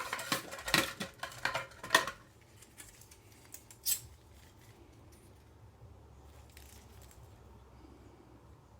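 A quick run of clicks and clatters of small hard objects being handled for about two seconds, then one sharp click about four seconds in.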